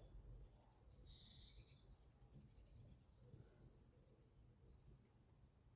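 Small songbird singing faintly: rapid high-pitched chirps and a quick trill, stopping a little under four seconds in.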